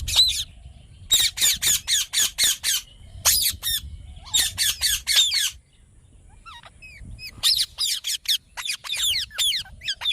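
A parrot squawking: runs of rapid, sharp, shrill calls, each call falling in pitch, in about four bursts with short pauses between them.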